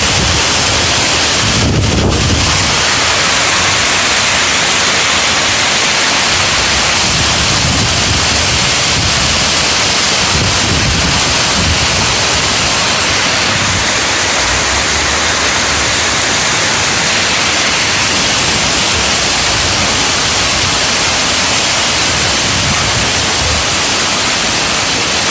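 Hail falling hard in strong wind: a loud, dense hiss of hailstones, with wind buffeting the microphone in irregular low gusts, strongest about two seconds in.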